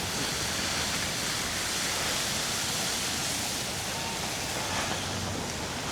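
Steady rushing noise of wind and road on the camera microphone while cycling along wet, snowy streets.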